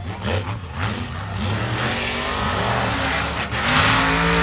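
Monster truck engine revving, rising in pitch and getting louder toward the end.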